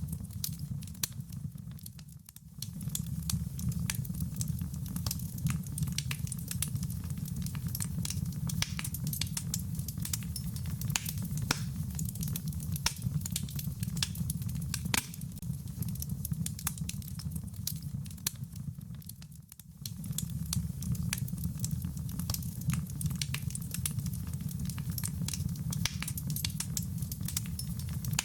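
Wood fire crackling with frequent sharp pops over a steady patter of rain and a low rumble. The sound dips briefly twice, about two seconds in and again near twenty seconds.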